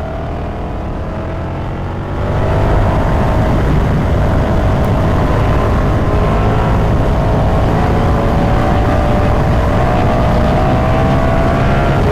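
Ducati Multistrada V4 Pikes Peak's V4 engine running at road speed under heavy wind rush. About two seconds in it gets louder and the engine note climbs as the throttle opens, then holds high.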